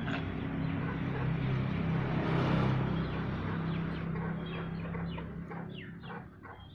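A vehicle engine running and fading away, then a run of short, repeated animal calls, about three a second, near the end.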